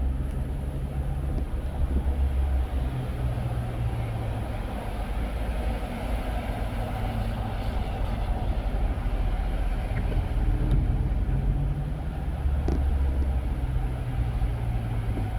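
A car driving along a road: a steady low rumble of engine and tyre noise, with a single sharp click near the end.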